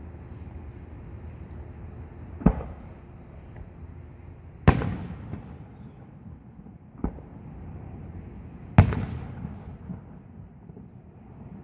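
Fireworks display shells bursting: four booms about two seconds apart, the second and fourth the loudest, each of those two trailing off in a rolling echo.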